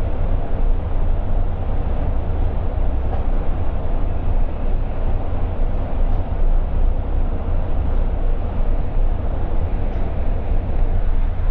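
Amtrak passenger train running: a steady low rumble with an even rushing noise over it.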